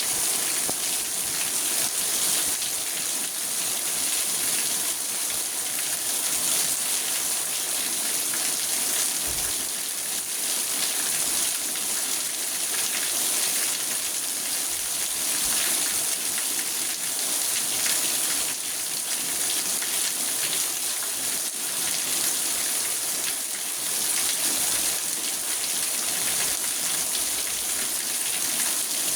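Steady rain falling on a car's roof and windows, heard from inside the cabin: a dense, even patter of drops with a hiss that sits high in pitch.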